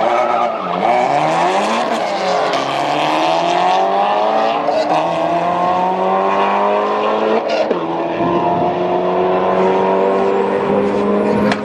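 Car engine accelerating hard, its pitch climbing and dropping back at gear changes about two and a half and five seconds in, then falling about seven and a half seconds in and holding a steady note.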